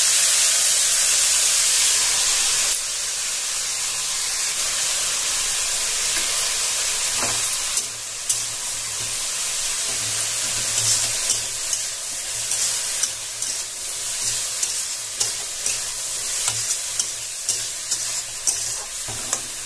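Bitter gourd and potato pieces sizzling as they fry in mustard oil in a steel kadai. The sizzle is loudest for the first few seconds, then settles. From about eight seconds in, metal tongs click and scrape against the pan as the vegetables are stirred.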